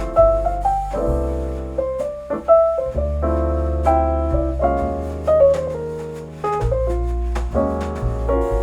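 Jazzy piano music with deep, sustained bass notes and light percussion ticks, played back through a Fezz Audio Titania push-pull tube amplifier and Qualio IQ semi-open-baffle speakers.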